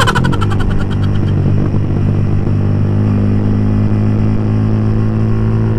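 Yamaha R15 v3's single-cylinder engine, running through an open aftermarket exhaust pipe, pulling steadily as the bike rides along, its note stepping slightly higher about three seconds in. A short run of rapid ticks at the very start fades out within about a second.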